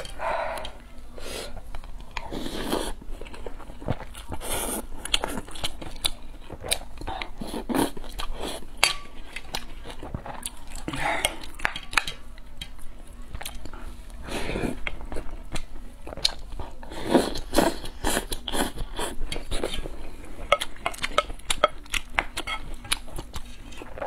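Close-up eating sounds: chewing and mouth smacks on spoonfuls of rice soaked in spicy broth, with many short clicks throughout, alongside a wooden spoon scraping in a ceramic bowl.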